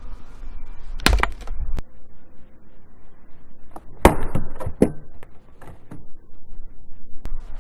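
Chopping blows of a hand blade into firewood: a sharp strike about a second in followed by a few smaller knocks, then another strike about four seconds in with a second one about half a second later.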